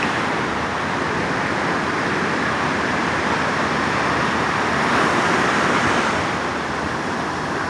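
Surf of a rough, stormy sea: a steady wash of waves on the beach, with a wave breaking louder about five seconds in.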